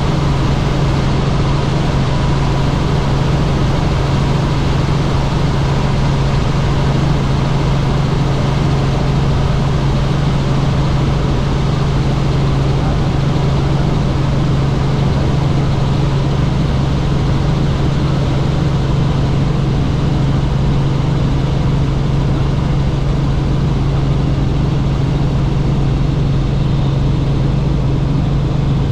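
Helicopter in flight: the steady, unchanging noise of its rotors and engine, with a strong low hum over a broad rush.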